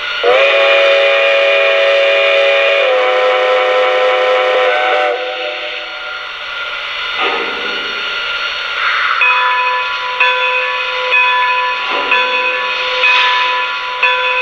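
O scale Lionel Legacy steam locomotive's onboard sound system blowing its steam whistle in one long multi-note blast that changes pitch partway through, followed by steam hissing and chuffing.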